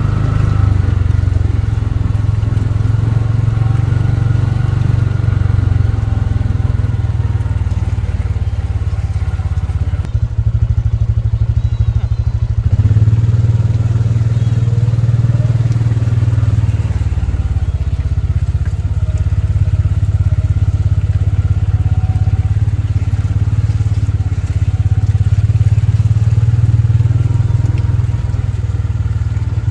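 Engine of a motor vehicle running steadily with a deep, low rumble, briefly changing in tone about ten seconds in.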